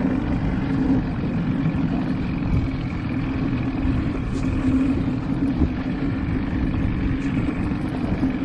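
Boat motor running steadily at low trolling speed, a constant hum over engine and water noise.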